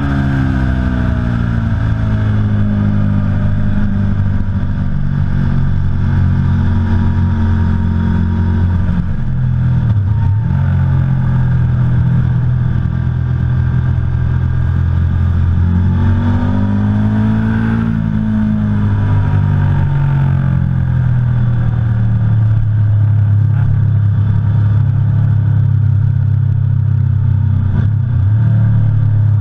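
Aprilia Tuono V4 Factory's V4 engine running on the move, its pitch mostly steady, dipping briefly about ten seconds in and rising then falling again a little past the middle as the throttle changes.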